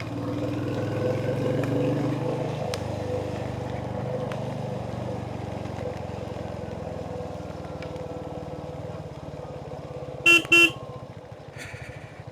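Royal Enfield Hunter 350's single-cylinder engine running steadily under way, with two short horn toots about ten seconds in.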